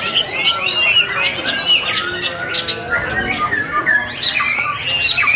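Many caged white-rumped shamas singing at once: a dense, overlapping jumble of quick whistles, chirps and trills.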